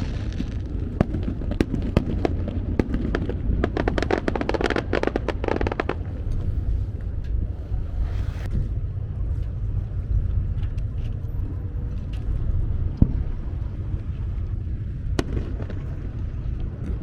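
Fireworks display: a dense run of crackling stars with many sharp pops in the first six seconds, then a short hiss and a few single bangs, over a steady low rumble.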